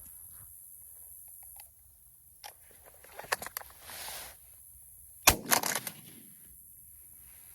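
A single shotgun shot at a dove about five seconds in, the loudest sound, with a short trail of cracks after it. It is preceded by a few small clicks and a brief rustle of handling.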